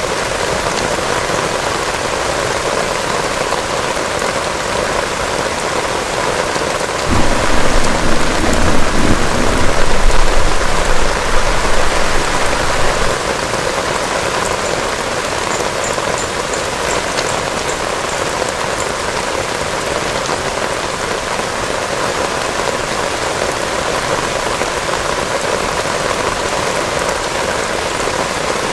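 Heavy rain falling steadily, with a roll of low thunder starting about seven seconds in, the loudest sound, that rumbles for some six seconds before fading back into the rain.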